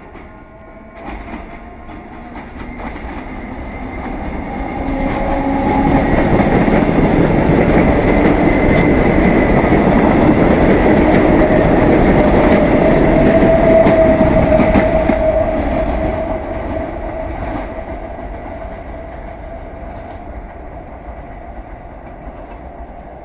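Toshiba electric multiple-unit commuter train passing close at speed: it grows louder over about five seconds, is loudest for some ten seconds as the cars go by, with a steady whine and wheels clacking over the rail joints, then fades away.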